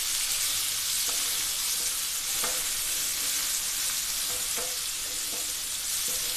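Onions and tomato sautéing in oil in a nonstick frying pan: a steady sizzle, with a wooden spatula scraping and tapping against the pan now and then as it stirs.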